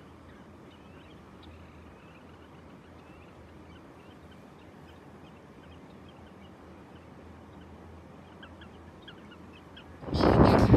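Faint bird calls, scattered small chirps over a quiet low background hum, cut off near the end by a sudden loud noise.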